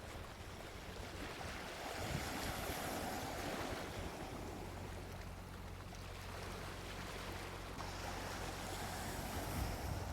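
Gentle sea waves washing onto a beach, the surf swelling and easing over several seconds, with some low wind rumble on the microphone.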